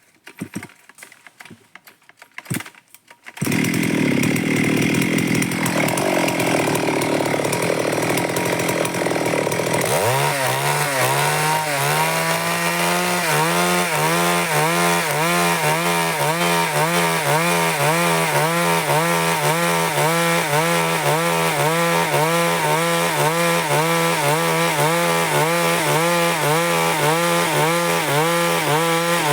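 Stihl MS 382 two-stroke chainsaw cutting wood, starting loudly a few seconds in after a few faint clicks. From about ten seconds on, its engine note rises and falls in a steady rhythm as the chain works through the cut.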